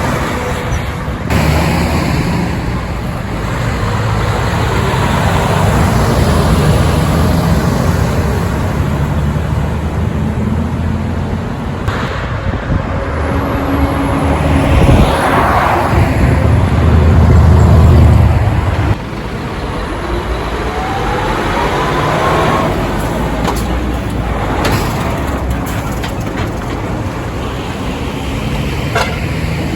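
Heavy diesel trucks driving past on a road, engine sound and tyre noise mixed with passing traffic. The loudest pass, a deep low engine sound, builds and then cuts off suddenly about two-thirds of the way through, and a faint rising whine follows.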